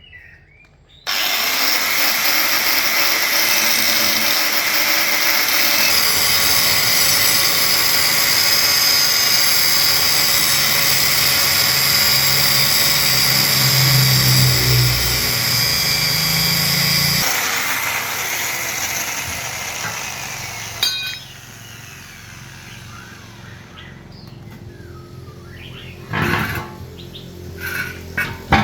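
A power tool running loud and steady, cutting in abruptly about a second in and tapering off after the middle. A few sharp knocks follow near the end.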